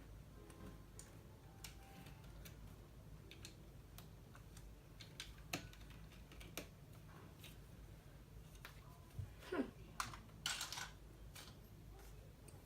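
Plastic LEGO bricks clicking and clattering as pieces are handled and pressed together: faint scattered clicks, with a louder flurry about ten seconds in.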